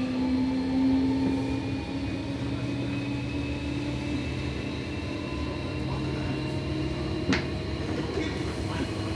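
Seibu 6000 series electric train running under power, heard inside a motor car: the Toshiba IGBT VVVF inverter and traction motor whine slowly rising in pitch as the train gathers speed, over steady wheel and rail noise. One sharp click about seven seconds in.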